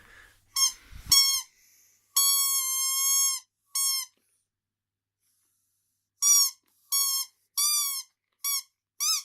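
A squeaky dog toy squeaking as a dog chews it. First come short squeaks and one long squeak of over a second, then a pause of about two seconds, then a quick run of shorter squeaks.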